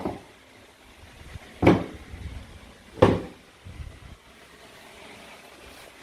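Two sharp clacks about a second and a half apart, plastic or wooden toy food pieces knocking against a cutting board as they are cut or set down.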